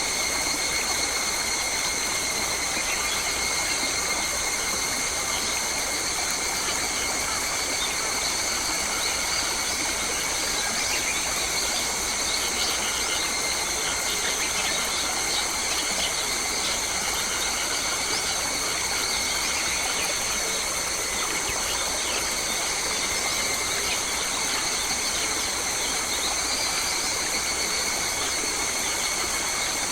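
Australian bush ambience: a steady rush of running water under a continuous high-pitched drone, with scattered short bird calls in the middle stretch.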